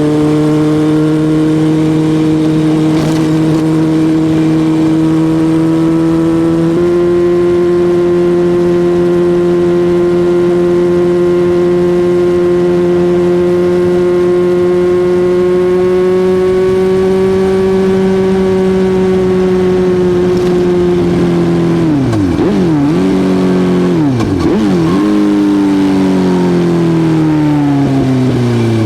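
Suzuki GSX-R1000 inline-four engine held at steady high revs, stepping up slightly about seven seconds in. Near the end the revs twice drop sharply and come straight back, then fall steadily as the bike slows.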